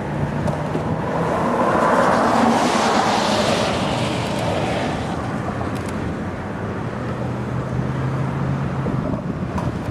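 Steady low hum of a vehicle engine. A rush of noise swells and fades over a few seconds, from about one to five seconds in.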